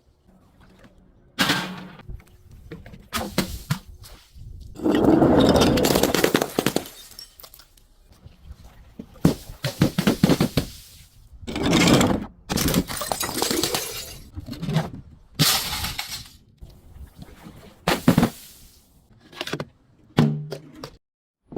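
A series of objects being smashed and crushed one after another: about a dozen separate breaking and crunching impacts, some short, others drawn out over a second or two.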